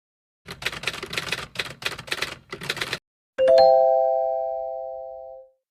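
A quick run of clattering strokes, like typing, for about two and a half seconds. Then a single bright chime chord that rings and fades out over about two seconds.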